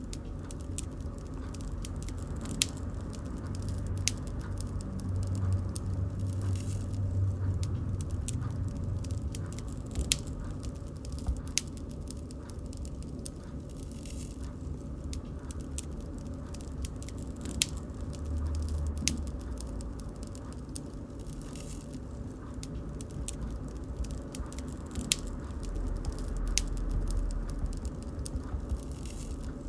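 Bonfire crackling: burning wood snapping and popping in sharp, irregular clicks over a low, steady rumble of the flames.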